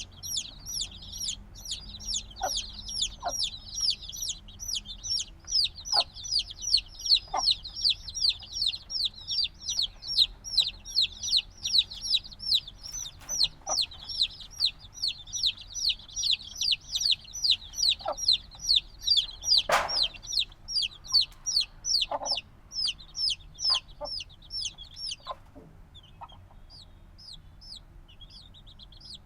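A group of chicks, hatched a few days earlier, peeping noisily: a rapid, unbroken run of short, high, downward-sliding peeps, several a second. Scattered soft knocks sound among them, with one louder knock near the middle. About three-quarters of the way through the peeping drops away to a few fainter calls.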